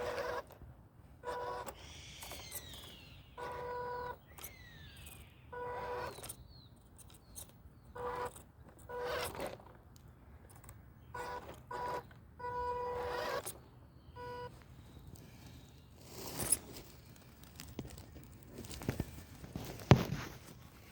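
MN168 RC crawler's electric motor whining at one steady pitch in about a dozen short bursts as it is driven in stops and starts. Faint bird chirps sound early on, and two sharp knocks come near the end, the second the loudest sound.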